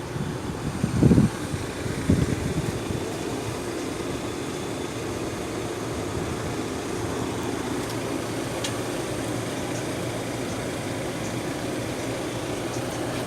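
Steady mechanical hum of a running machine, with a few short loud sounds in the first two seconds.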